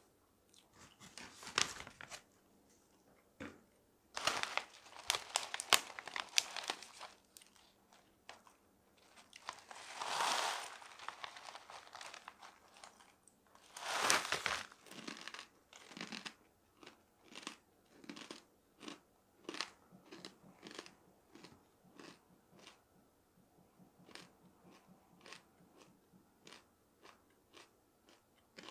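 Close-up crunching and chewing of dried food, crackly and dense in the first few seconds, then settling into an even chewing rhythm of about one and a half chews a second. Near the middle a paper bag crinkles twice.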